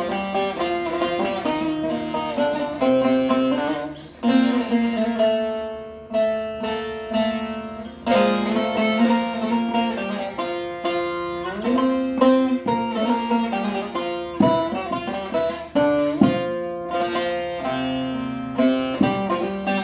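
Instrumental Turkish folk melody played on a plucked string instrument, with repeatedly struck, ringing notes and occasional sliding pitches.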